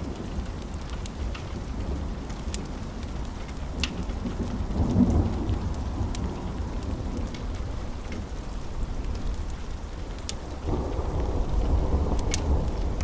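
Steady rain with low rolling thunder that swells about five seconds in and again near the end, with scattered sharp ticks over it.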